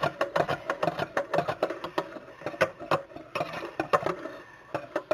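A knife stirring in a metal can or pan, making a quick, irregular run of clicks and taps against the metal.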